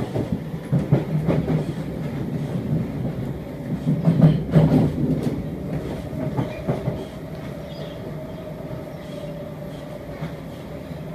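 Siemens C651 metro train running out of the station, heard from inside the car: wheels clatter and knock over the track for the first several seconds, loudest a few seconds in. The ride then settles into a steadier, quieter run with a level tone.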